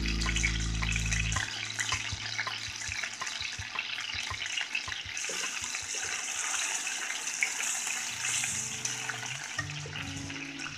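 Soy-marinated chicken pieces frying in hot oil in a metal wok: a steady sizzle with crackles, getting a little brighter about halfway through. There are occasional clicks of metal tongs as the pieces are turned. Background music plays at the start and again near the end.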